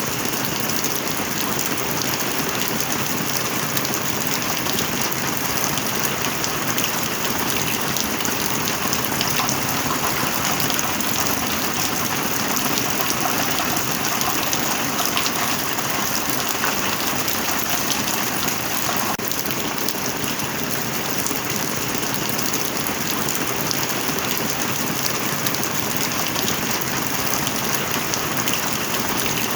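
Steady heavy rain falling, a dense hiss with many individual drop ticks.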